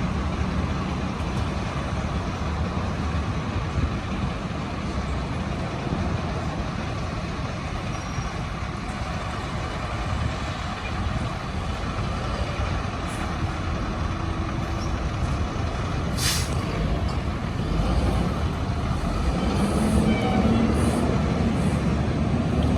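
Heavy fire apparatus diesel engine running steadily, with a short hiss of air brakes about sixteen seconds in and a rising tone starting near the end.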